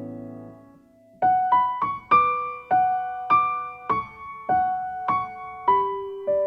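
Background piano music: a held chord fades away, and after a brief pause a slow melody of single notes begins, about two notes a second.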